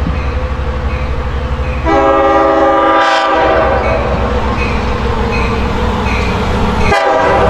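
Diesel passenger train rolling past with a steady clickety-clack of wheels on rail joints. About two seconds in, a DM30AC locomotive's Nathan K5LLA five-chime air horn sounds a chord for about a second and a half, and a second short blast follows near the end.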